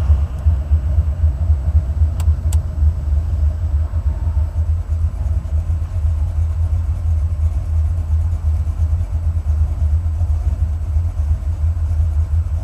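Buick 455 V8 running with a steady, pulsing low rumble; the owner says its new header gaskets have cured an exhaust leak. Two faint clicks a little after two seconds in.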